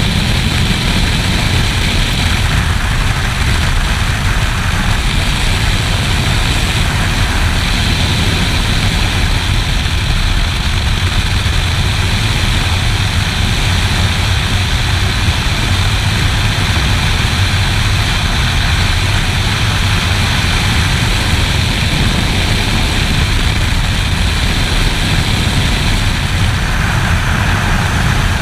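Steady wind rush over a GoPro's microphone with a motorcycle engine running underneath, at constant riding speed.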